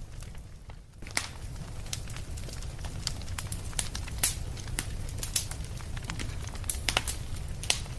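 Wood fire crackling in a fireplace: irregular sharp pops and snaps over a low, steady rumble. It is quieter for about the first second, then the pops come thickly.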